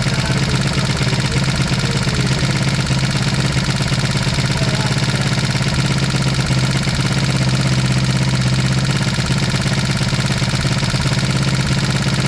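1973 Honda CB350's air-cooled parallel-twin engine running steadily on its first start after 18 years of sitting, with a fast, even run of firing pulses.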